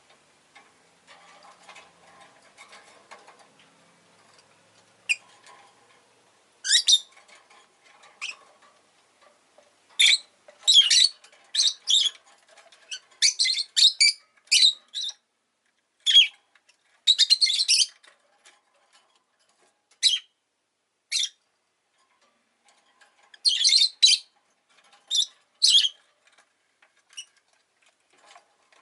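Rosy-faced lovebird chirping: short, sharp, high-pitched chirps in quick clusters, with quieter soft chatter in the first few seconds.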